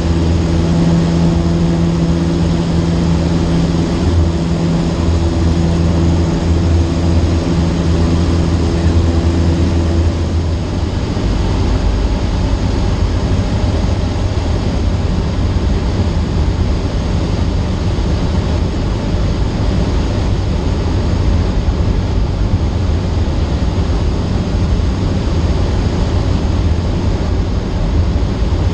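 Cessna 152's four-cylinder Lycoming engine and propeller droning steadily, heard from the cockpit. About ten seconds in, the steady hum gives way to a rougher rushing noise.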